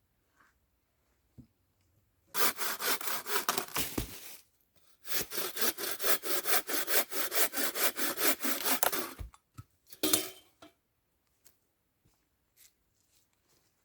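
Hand saw cutting wood in rapid, even back-and-forth strokes, in two runs of about two and four seconds with a short pause between, then one brief last pass.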